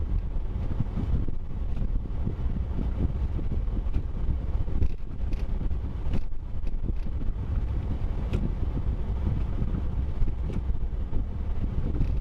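Steady low rumble of a vehicle on the move, with wind buffeting the microphone and a few faint clicks.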